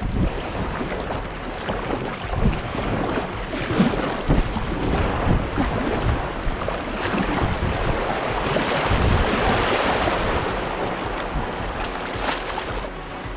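Water rushing and splashing around a kayak on a shallow river, with wind buffeting the microphone in irregular low thumps.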